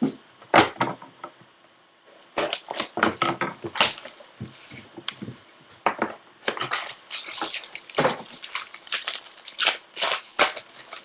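A trading-card pack being torn open and its wrapper crinkled, with cards handled: a busy run of short rustles and crackles with brief pauses.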